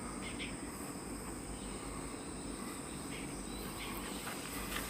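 Insects droning steadily in a high, even pitch, with a few faint short chirps scattered through.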